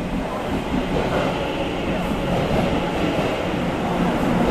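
Passenger train running on the rails: a steady rumble of wheels and running gear, growing a little louder toward the end.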